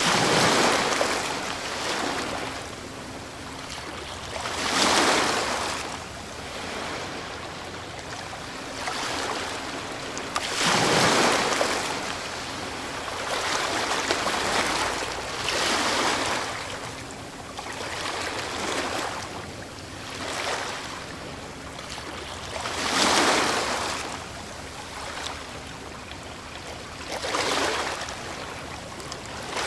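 Ocean waves breaking on a shore and washing back, one swell after another, each surge rising and fading every four to six seconds.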